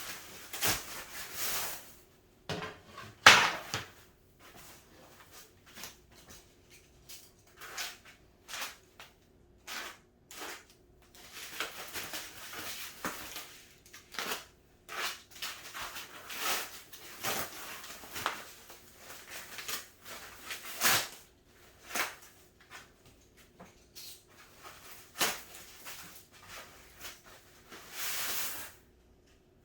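Cat tower parts being unpacked and handled: scattered rustles of packaging and knocks of boards being moved, with one sharp knock about three seconds in.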